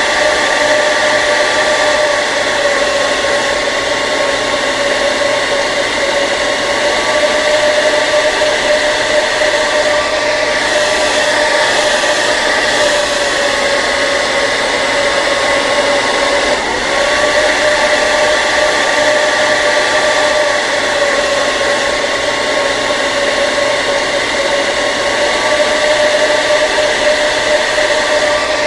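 Hair dryer running steadily: a constant rush of air with a steady motor whine over it, the pitch wavering only slightly.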